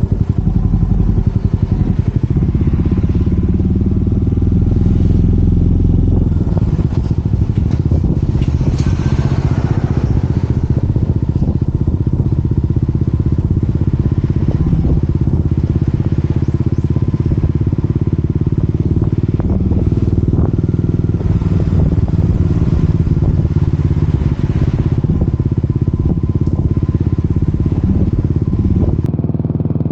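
Yamaha SR400 Final Edition's single-cylinder engine running under way through a Peyton Place conti muffler. The exhaust pulses steadily, and the low end of the note changes about six seconds in.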